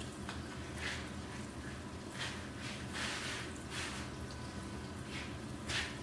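Batter-coated sweet potato slices frying in hot oil in a pan, sizzling and crackling in irregular short hissy bursts.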